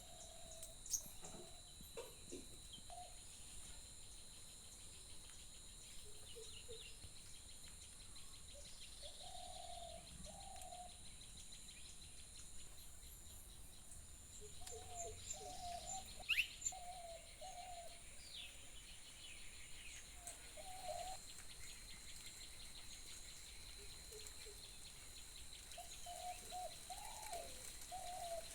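Rural ambience: insects keep up a steady, high, continuous trilling while birds call over it. Short low hooting or cooing phrases recur in groups throughout, and a single sharp rising whistle comes about halfway through.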